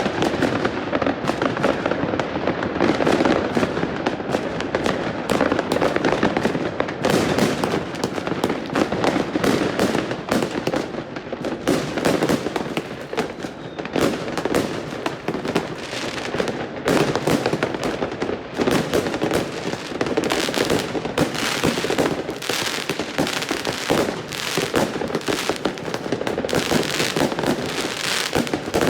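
New Year's Eve fireworks and firecrackers going off all around in a continuous barrage, countless overlapping bangs, pops and crackles with no break.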